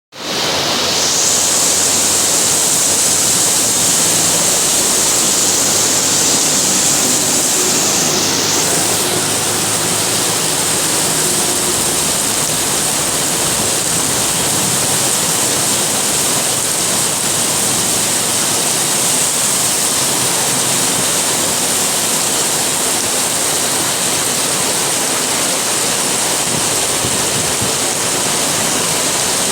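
Heavy rain pouring down, a loud steady rushing hiss.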